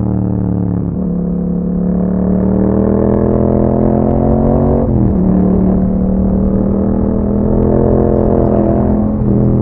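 2021 Yamaha MT-07's 689 cc parallel-twin engine through an Akrapovic exhaust, riding under power with a steady drone. It shifts up a gear about a second in and again about five seconds in, the pitch dropping sharply each time.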